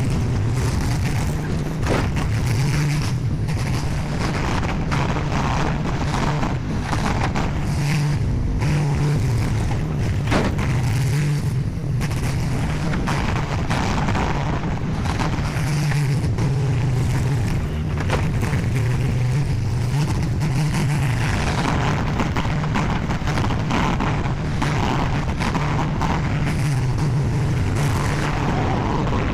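Skid steer engine running steadily under working load, its pitch swelling and easing, with a few sharp knocks now and then.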